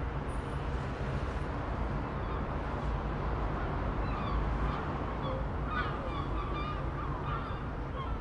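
Steady outdoor background noise with a low hum. From about halfway through, birds give a run of short, harsh calls.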